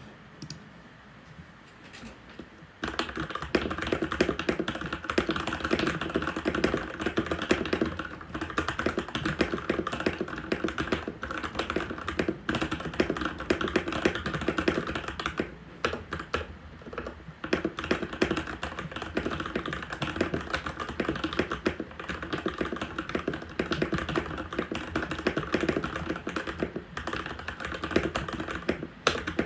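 Typing on a Keychron C1 mechanical keyboard with factory-lubed Gateron G Pro Red linear switches, high-profile ABS keycaps and a plastic case, set on a desk mat. The typing starts about three seconds in as a fast, dense stream of key clacks, with a short lull about halfway.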